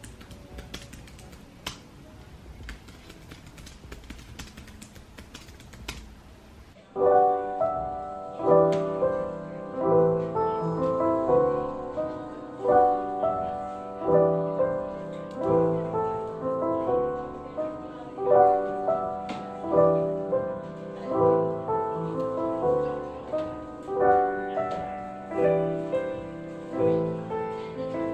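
Faint clicking of a computer keyboard being typed on, then soft piano background music comes in about seven seconds in and plays on in a repeating chord pattern.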